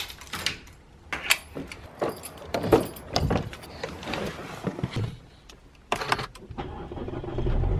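Keys jangling and a string of short clicks and knocks, as when getting into a car. Near the end a car engine's steady low hum comes in.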